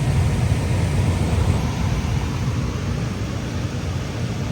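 Carrier gas furnace running on heat: a steady low rumble of burner flame and blower.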